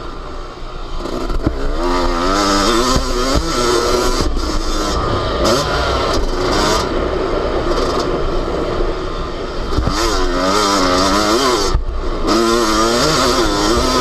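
Yamaha YZ250 two-stroke motocross engine heard from on board, revving up and down hard as the bike is ridden over a rough track. The throttle shuts briefly a few times, near the start, about four, seven and twelve seconds in, then the engine picks up again.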